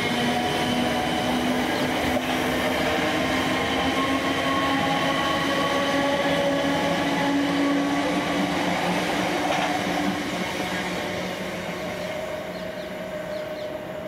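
Class 455 electric multiple unit running through at speed: its traction motors whine steadily over the rumble of wheels on rail, then the sound fades away over the last few seconds as the train goes. A crow caws near the end.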